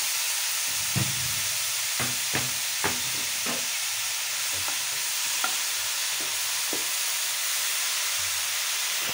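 Freshly grated carrots sizzling in hot ghee in a metal karahi, a steady hiss with a few light knocks scattered through it. Near the end a wooden spatula starts stirring them.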